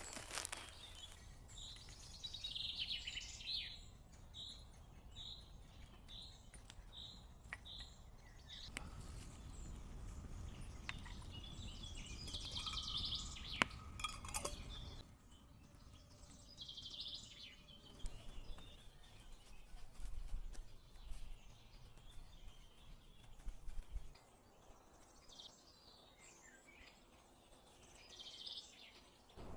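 Birds calling in woodland: a run of about eight short high notes repeated evenly, roughly one and a half a second, then scattered calls later on. A few sharp clicks and knocks sound in between over a low background rumble.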